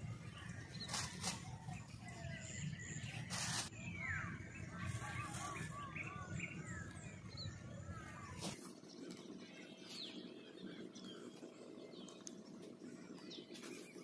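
Small birds chirping and calling in many short rising and falling notes. A low rumble on the microphone stops abruptly about eight and a half seconds in, and there are a few brief knocks.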